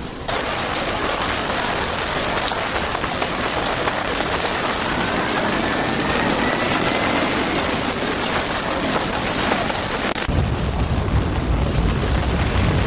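Steady heavy rain hiss. About ten seconds in it changes abruptly to a duller rain sound under a strong low rumble.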